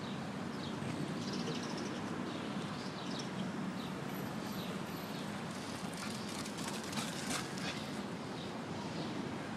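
Steady outdoor background noise with a few faint high chirps and light clicks; no barking.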